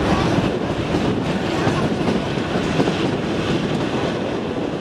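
Kalka–Shimla narrow-gauge toy train carriages running along the track, heard from an open carriage doorway: a steady, loud rumble and clatter of the wheels on the rails.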